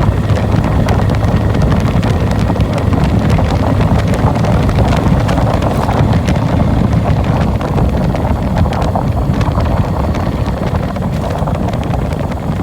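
Hero Passion Pro motorcycle's 110 cc single-cylinder engine running steadily while riding, under heavy wind buffeting on the microphone.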